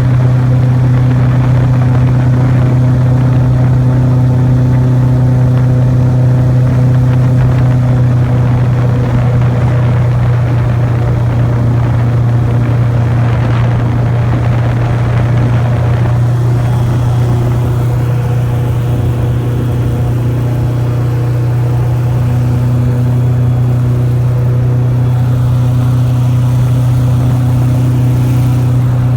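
Airboat's engine and air propeller running steadily under way, a loud, constant low drone with a slight dip in level about two-thirds through.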